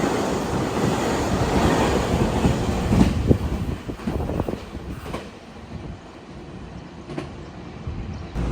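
Taiwan Railways train running past, its wheels clacking over rail joints, the noise dying away after about four seconds.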